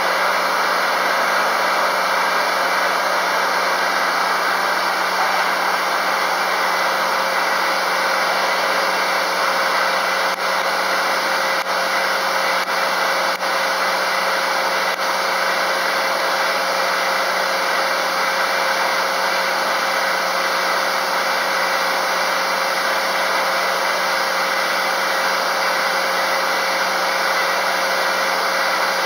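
FKD 500 double-arbor circular saw running steadily, an even mechanical drone with a constant hum, and a few faint ticks in the middle.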